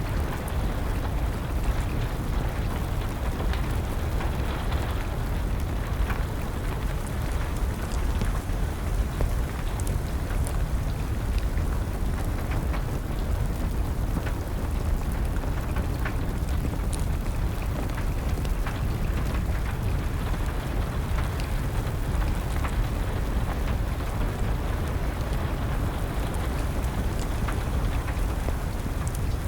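Steady rain with a deep, constant low rumble, and scattered small crackles and pops of a burning wood fire.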